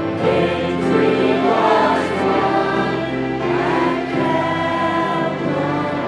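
Group of voices singing a hymn together over held instrumental chords, as in a church choir.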